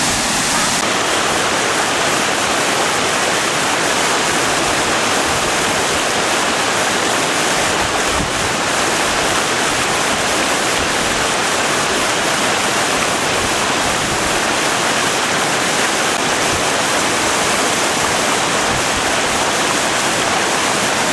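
Chet Si waterfall's water falling and rushing steadily, a loud, even sound of falling water.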